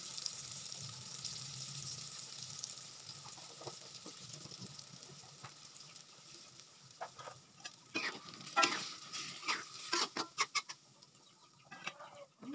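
Flour-coated tofu cubes sizzling in hot oil in a wok. The sizzle dies down as the coating dries crisp. From about seven seconds in, a spatula knocks and scrapes against the wok in sharp clicks as the tofu is stirred.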